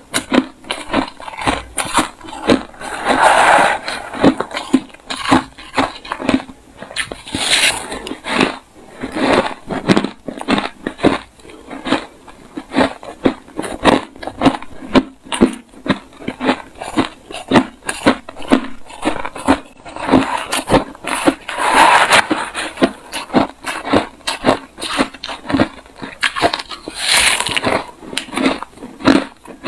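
Refrozen crushed ice being bitten and chewed close to the microphone: a rapid, continuous series of hard, loud crunches, with a few longer grinding crunches standing out.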